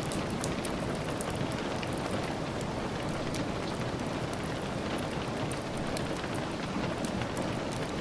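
Steady rain falling, a dense even hiss, mixed with many small sharp crackles and ticks like a wood fire's crackle and drops tapping on glass.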